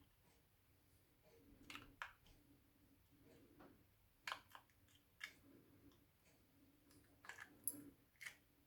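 Faint, scattered small clicks and taps, about seven, from handling the Kymco AK 550's plastic remote key case and its battery.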